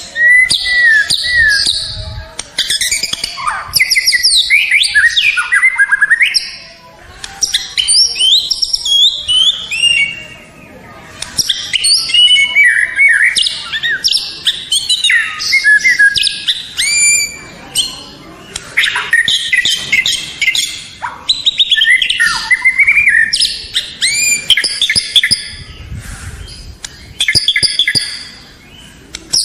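White-rumped shama (murai batu) singing a long, varied song: loud whistled phrases, quick up-and-down sweeps and rapid trills, separated by short pauses.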